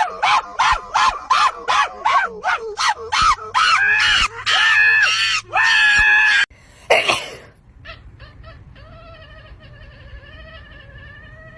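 A pet animal's rapid run of short pitched cries, about three a second. A few longer drawn-out cries follow, then one sharp cry, and a quieter wavering cry near the end.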